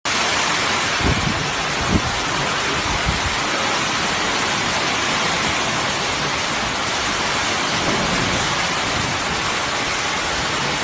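Heavy tropical downpour falling steadily as a dense hiss, with a few short low thumps about one, two and three seconds in.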